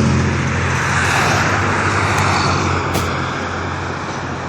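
Road traffic: a car passing on the street, its tyre and engine noise swelling about a second in, then fading away.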